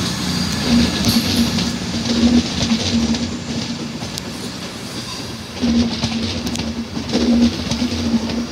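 Passenger train's coaches rolling past, their wheels clacking over the rail joints, over a rumble and a steady hum.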